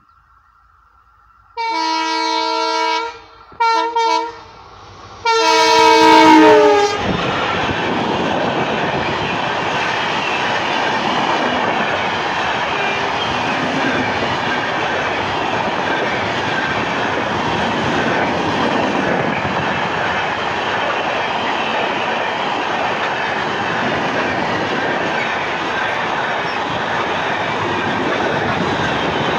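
Indian Railways electric locomotive sounding its multi-tone horn three times, the last blast the longest and loudest. Then a train of LHB passenger coaches rushes past close by with a steady, loud rumble and clatter of wheels on the rails.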